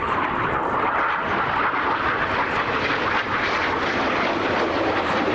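Red Arrows' BAE Hawk jet trainers flying over, a steady, even jet-engine rush.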